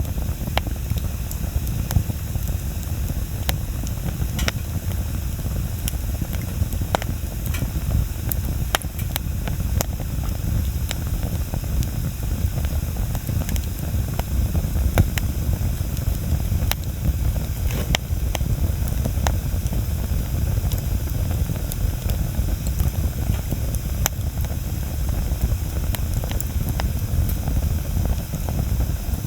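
Wood bonfire burning: a steady low rushing noise with sharp crackles and pops breaking through it at irregular intervals.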